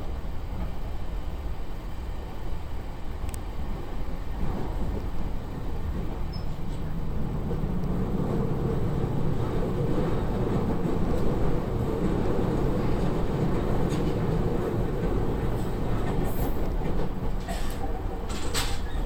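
Running noise heard inside a Narita Line commuter electric train: a steady rumble of wheels on rail that grows louder about halfway through. A few sharp clicks come near the end.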